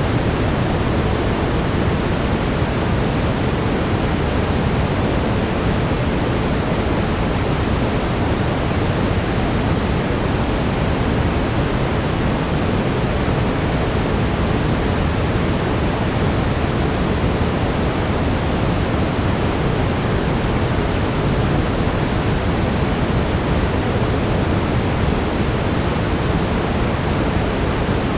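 Steady brown noise: an even, unbroken rushing hiss weighted toward the low end, with a faint steady tone just under 500 Hz, in keeping with the track's 432 Hz tuning.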